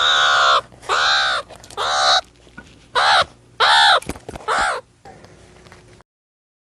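Meerkat calling: a run of six short, harsh calls, roughly one a second, each rising then falling in pitch. The recording cuts to silence about six seconds in.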